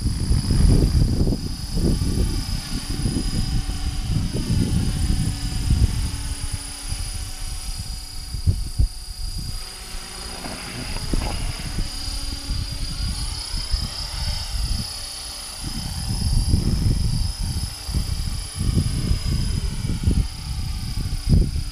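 HK-500GT 500-class electric RC helicopter flying, its brushless motor and rotors giving a steady high whine and hum. Loud gusty wind buffets the microphone throughout.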